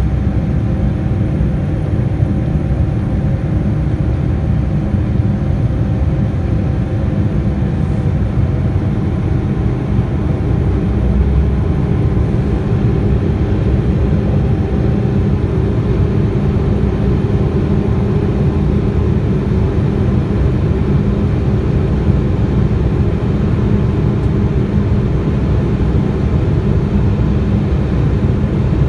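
Boeing 787-9 jet engines and airframe heard inside the passenger cabin: a steady, loud rumble with a faint steady hum that fades out about a third of the way through.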